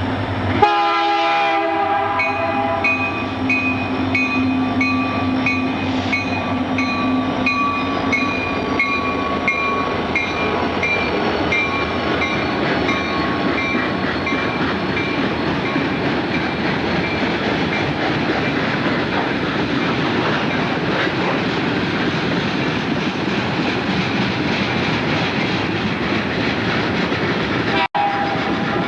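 Train horn sounding a short chord about a second in, then a train rolling past with steady wheel and rail noise. The sound cuts out briefly near the end.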